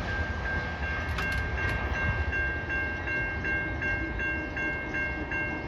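Warning bells ringing in rapid repeated strokes, about three a second, with a second bell tone joining about a second in, over the low rumble of a passing GO Transit push-pull commuter train, with a few sharp clacks.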